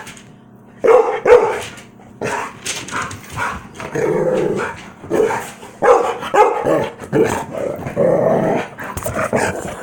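Two dogs playing, barking in quick, repeated bursts with some growling mixed in.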